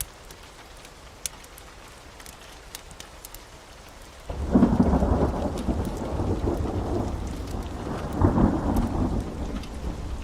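Steady heavy rain with scattered sharp clicks; about four seconds in a loud thunder rumble breaks in suddenly and rolls on, swelling again about eight seconds in.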